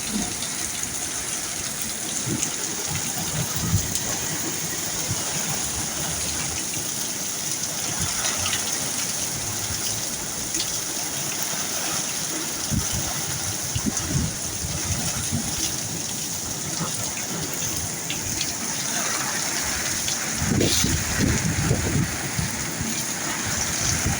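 Heavy rain pouring down steadily in a storm, a dense hiss with water gushing and running off. A few low rumbles come through toward the end.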